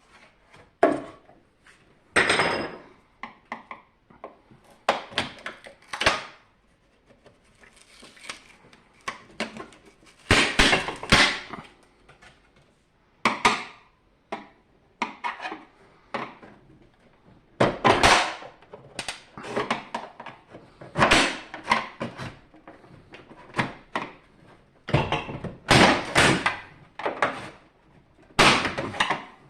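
Dehumidifier parts being handled and taken apart: irregular clicks, knocks and scrapes of casing and components, some short, some lasting about a second.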